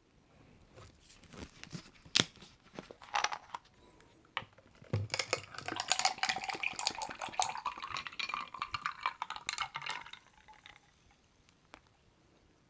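Glass and tableware clinking and knocking as a drink is set up, then jasmine tea poured into a glass for about five seconds, the pitch of the pour rising as the glass fills.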